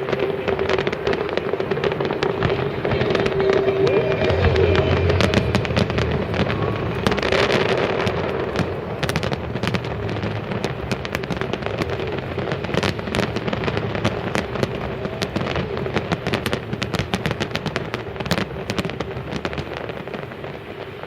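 Large fireworks display: aerial shells booming and bursting into dense, rapid crackling. Deeper booms come about four to six seconds in, and the crackling thickens in the second half.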